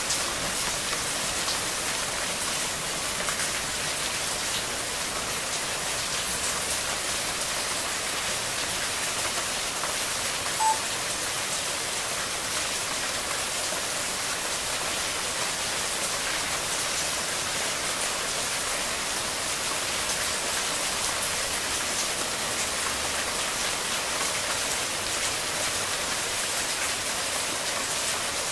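Steady rain falling on foliage, an even hiss. A single short high tone sounds about a third of the way in.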